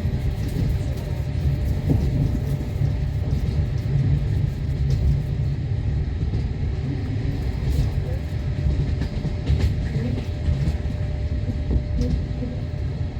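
Passenger train running on the rails, heard from inside the carriage: a steady low rumble of the wheels with a few sharper clacks here and there.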